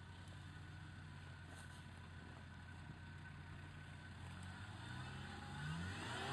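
Off-road 4x4 engines running at a steady low idle, then revving up with a rising pitch over the last couple of seconds as the Opel Frontera is driven up out of a grassy ditch.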